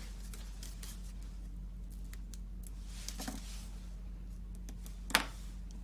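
Light handling of cardstock and glue dots on a craft table, with a few faint ticks, a small click about three seconds in and a sharp tap a little after five seconds, over a steady low hum.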